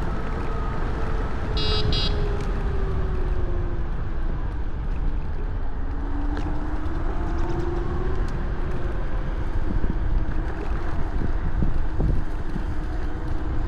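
Riding an electric scooter: wind buffets a chest-mounted camera's microphone throughout, and a faint motor whine glides slowly up and down with speed. Two short high beeps come about two seconds in.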